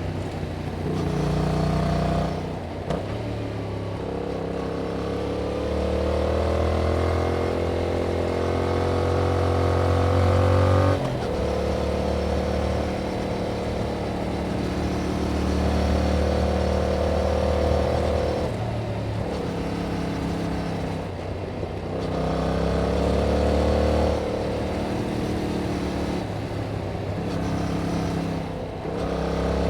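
2021 Yamaha MT-07's 689 cc parallel-twin engine through its stock exhaust, pulling under throttle with the pitch rising, then dropping suddenly as the rider shifts or rolls off, several times over. The longest pull climbs steadily for about seven seconds before a sharp drop.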